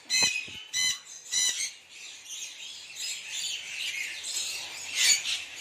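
A flock of conures squawking: three loud, harsh screeches in quick succession, then steady high-pitched chattering from many birds, with another loud squawk near the end.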